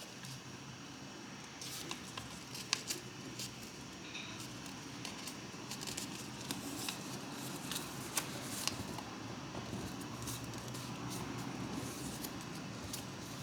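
Origami paper being folded and creased by hand: scattered light crinkles and taps over a faint steady hum.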